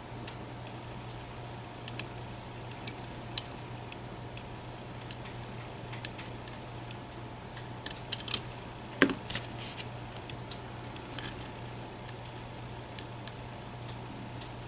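Small metallic clicks and ticks of a lock pick and tension tool working the pins and sliders inside an EVVA ICS dimple lock, irregular and sparse, with a quick cluster of clicks a little past halfway, over a steady low hum. The picker is trying to set a slider that has fallen back out of its gate.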